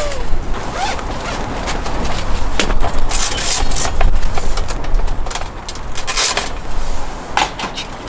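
Strong gusty wind rumbling on the microphone, with tent fabric flapping and rustling in irregular bursts; the gusts swell about three and six seconds in.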